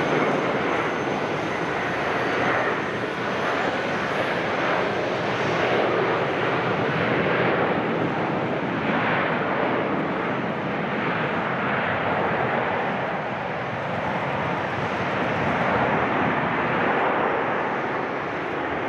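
Jet airliner engines: a loud, steady rushing noise that swells and eases a little.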